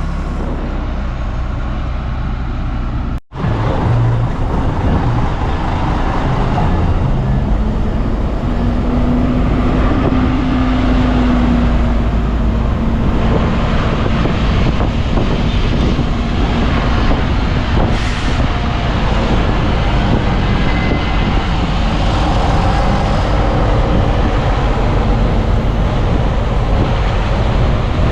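Heavy diesel earthmoving machinery running under load, its engine note rising and then falling in pitch around the middle. The sound drops out for an instant about three seconds in.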